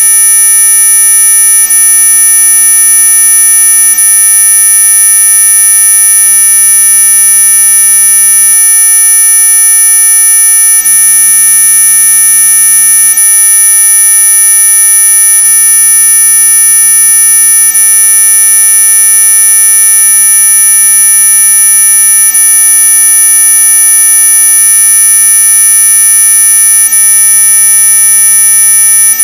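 Synthetic anti-mosquito repellent tone: a loud, steady electronic buzz made of many unchanging pitches, the brightest high and shrill, running without a break.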